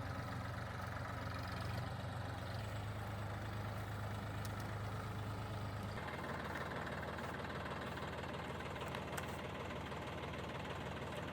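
Massey Ferguson tractor engine idling steadily. About six seconds in, its deep low hum drops away and the note changes.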